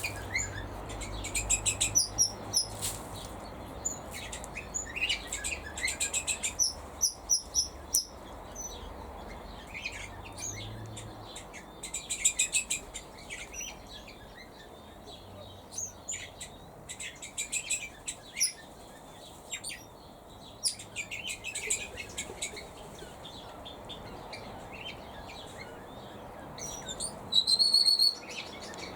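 Small birds in a mixed aviary chirping and twittering in short, repeated bursts, with one louder, longer call near the end.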